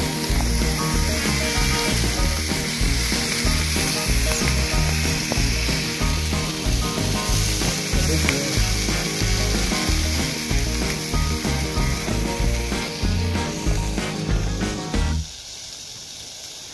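Sausages sizzling and spitting in a cast iron skillet, with a low pulsing rumble underneath. The sizzling cuts off suddenly about fifteen seconds in.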